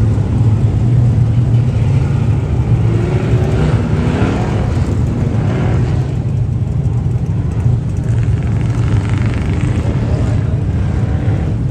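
Motor vehicle engine running steadily, a continuous low drone with no revving, with faint voices in the background.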